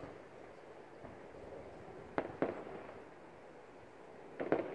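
Fireworks shells bursting: a pair of sharp bangs about a quarter second apart about halfway through, then a quick cluster of bangs near the end, each dying away in a short echoing tail.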